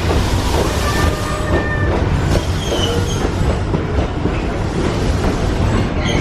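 Disneyland Railroad steam train running on its track: a steady rumble with wheel clatter and a few brief high squeals of the wheels.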